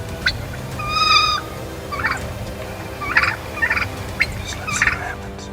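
Wild turkeys calling. A short clear call comes about a second in, followed by several short rattling gobbles.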